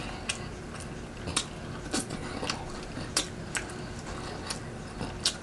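A person chewing food close to the microphone, with scattered short wet clicks and smacks at irregular intervals.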